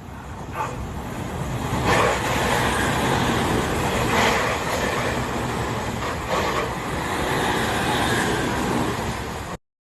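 Tobu Tojo Line train passing: a steady rumble that builds about half a second in, with a few sharp knocks, cut off abruptly near the end.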